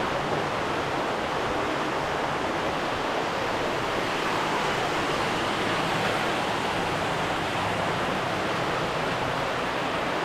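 Steady rush of flowing water, an even unbroken hiss.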